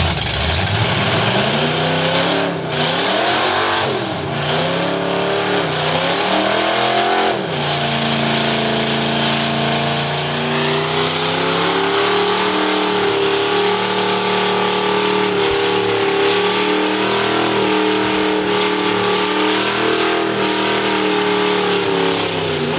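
Car engine revving hard during a burnout on locked brakes. Several rising and falling revs over the first seven seconds or so, then held at high revs fairly steadily.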